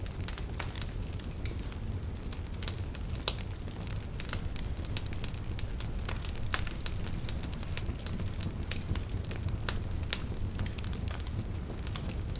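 Campfire burning, with frequent irregular crackles and pops of the wood over a low, steady rumble of flame. One louder pop comes about three seconds in.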